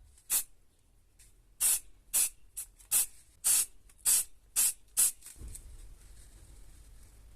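Short bursts of spraying hiss, about nine in a row at roughly two a second, which stop about five seconds in and leave a low rumble.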